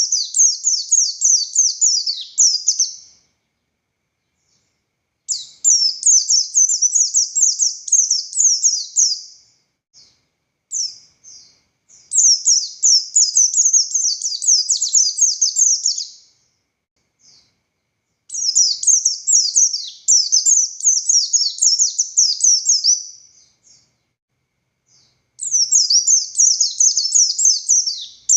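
Buxtoni white-eye (pleci) singing in long bursts of rapid, high twittering notes. Each burst lasts about four seconds, with short pauses between, about five bursts in all.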